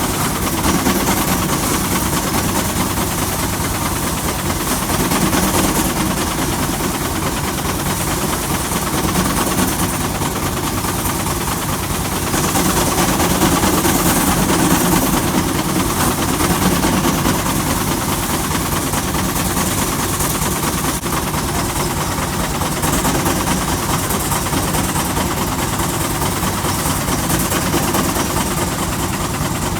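Threshing machine running steadily with the engine that drives it: a loud, even mechanical din with a fast low rumble underneath.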